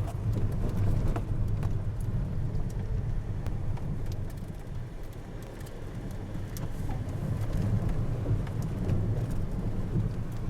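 A motor vehicle running: a steady low rumble with scattered small clicks and knocks.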